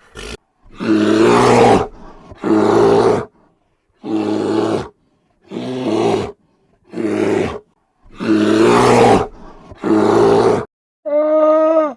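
A large animal calling: a run of about eight harsh, rhythmic calls, each just under a second long, followed near the end by one cleaner, pitched call.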